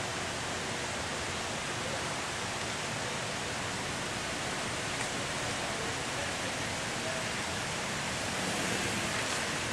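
A steady, even hiss of background noise, with a faint brief tone or two toward the end.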